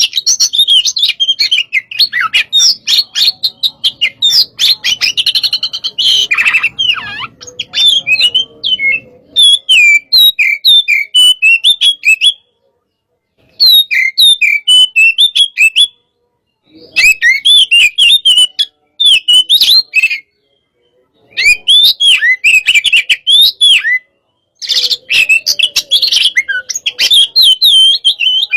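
Oriental magpie-robin (kacer) in full, aggressive song: loud, fast runs of varied chirps and whistles. The song comes in bursts, broken by short clean gaps four times.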